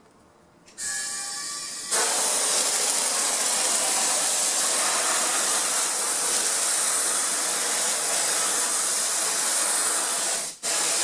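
Spray glue (contact cement) being sprayed onto upholstery and foam: a short hiss about a second in, then a loud, steady spray hiss that stops for a moment near the end and starts again.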